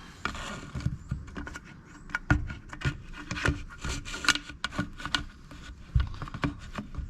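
Hand tools clicking, knocking and scraping irregularly against a chainsaw's housing while a fuel hose is hooked out from the tank.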